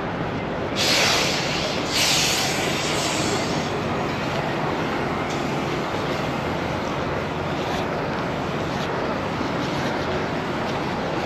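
Steady rumble of a semi-truck, with two short bursts of hissing about a second and two seconds in.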